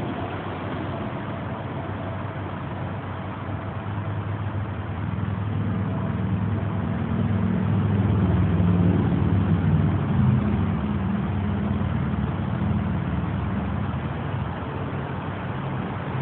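Ford straight-six engine running through its exhaust, a steady low note that grows louder about a quarter of the way in, is loudest around the middle, then eases back down.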